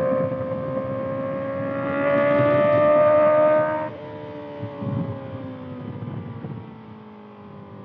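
2025 Kawasaki ZX-6R's inline-four through a Voodoo Racing slip-on exhaust, accelerating with its pitch rising and getting louder for about four seconds. The throttle then shuts suddenly and the engine note falls steadily as the bike slows.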